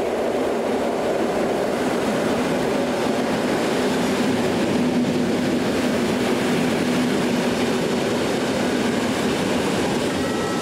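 Polish EN57-type electric multiple unit running past along the platform: steady rumble of the cars on the track, with a low steady hum through the middle of the pass.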